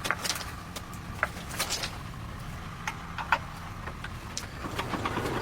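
Low steady engine hum with scattered sharp clicks and knocks, and a rise in noise near the end.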